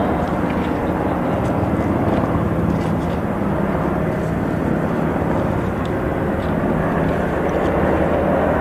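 Steady aircraft engine noise, a loud continuous running sound without change.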